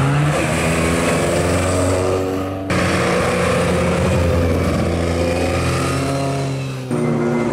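Lada VFTS rally car's four-cylinder engine running hard at high revs through a hairpin, its pitch holding and bending as it accelerates. The sound jumps abruptly twice, about a third of the way in and near the end, where separate passes are cut together.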